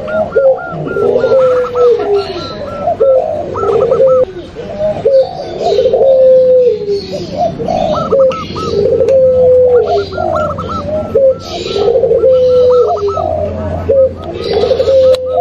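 Overlapping cooing of several doves, a mix of zebra dove, spotted dove and long-voiced ringneck dove (puter pelung). Low coos follow one another about every second, with quick trilling phrases above them. A faint low hum joins about halfway through.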